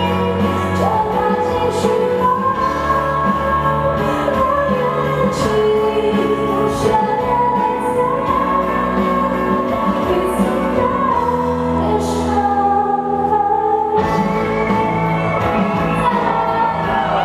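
A woman singing a pop ballad live, with band accompaniment.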